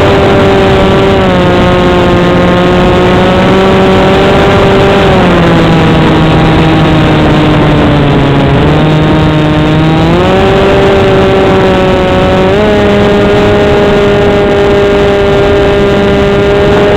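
RC foam flying wing's propeller motor running in flight, a steady pitched whine that sinks slowly as the throttle comes back through the middle and climbs again about ten seconds in and once more near thirteen seconds. Wind rushes over the wing-mounted camera's microphone throughout.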